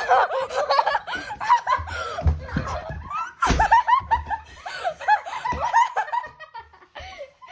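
Several boys laughing and shrieking, with a low rumble of movement on the microphone and a sharp thump about halfway through.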